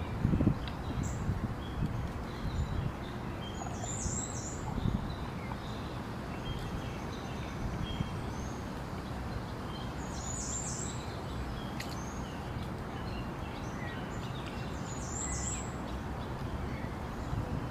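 Outdoor ambience: a steady hiss of background noise with scattered bird chirps, and a short high bird call three times.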